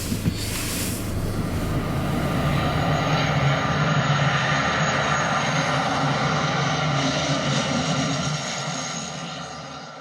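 Airliner engines running steadily, growing louder over the first few seconds, then fading out near the end.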